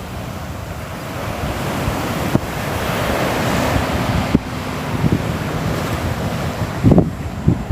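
Sea waves washing in, the surf noise slowly swelling, with low gusts of wind buffeting the microphone near the end.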